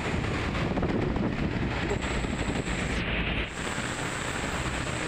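Steady road traffic noise, trucks on the highway, with wind on the microphone.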